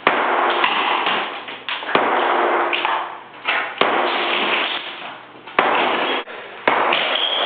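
Ceramic bathroom wall tiles being smashed off with a hammer: about five heavy blows, each followed by a second or so of crashing and clattering as the broken tile falls away.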